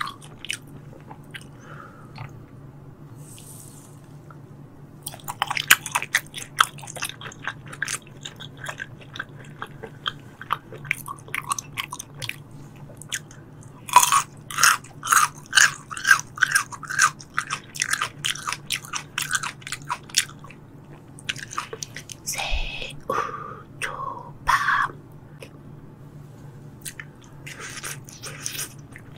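Close-miked chewing of raw tuna sashimi: wet, clicking mouth sounds in bouts, strongest about halfway through. A steady low hum runs underneath.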